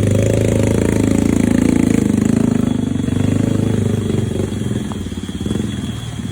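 Motorcycle engine running while riding offroad, a steady pulsing note that eases off a little about two-thirds of the way through.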